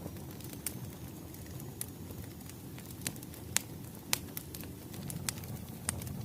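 Firewood fire crackling: a steady low rumble of burning wood with sharp pops every second or so, a few louder ones near the middle.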